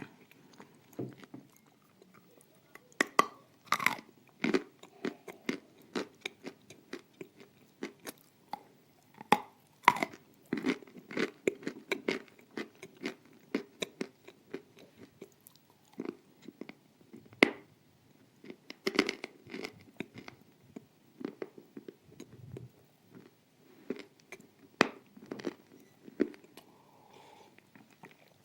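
Close-miked chewing of dry, hard edible clay: a run of irregular crisp crunches with short pauses and a few louder bites scattered through.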